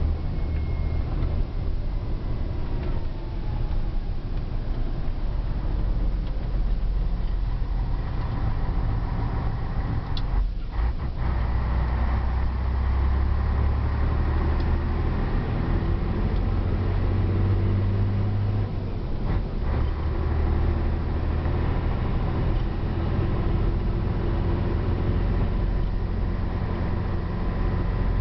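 Scania 113H truck's six-cylinder diesel engine running steadily as the truck drives along. The deep engine note shifts in pitch a few times and briefly breaks off twice, about ten seconds in and again near twenty seconds.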